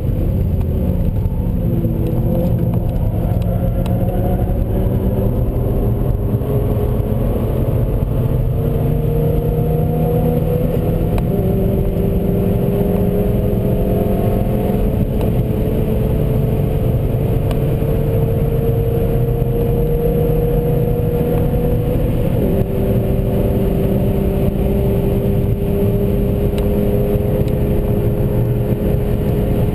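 Seat Leon Cupra 1P's turbocharged 2.0-litre four-cylinder engine pulling hard under acceleration. Its pitch climbs slowly and drops back with an upshift about a third of the way in and again about two thirds in, over steady tyre and wind noise.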